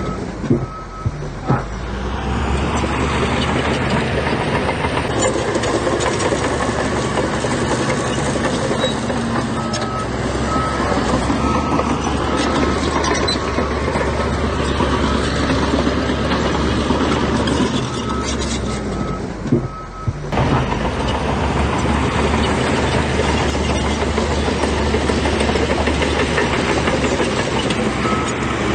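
Heavy diesel construction machinery running steadily under load, with a reversing alarm beeping in short runs several times. The machinery noise briefly drops with a couple of knocks about a second in and again about 20 seconds in.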